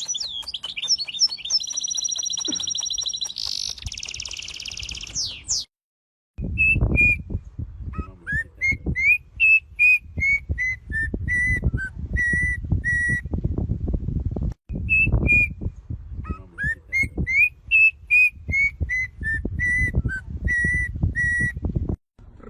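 A songbird singing: first a run of high, buzzy trills, then, after a brief break, a phrase of clear whistled notes that climbs and then steps down in a series of short, even notes. The whistled phrase is sung twice, with low rumbling noise underneath.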